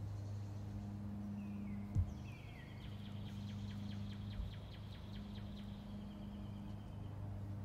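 Outdoor ambience with a steady low hum, a single thump about two seconds in, and a small bird singing: a short falling note, then a high trill of rapid repeated notes for a couple of seconds.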